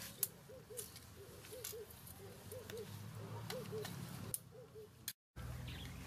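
A bird calling in pairs of short rising-and-falling notes, about one pair a second, over a few sharp clicks and knocks from bamboo poles being handled. The sound drops out for a moment near the end.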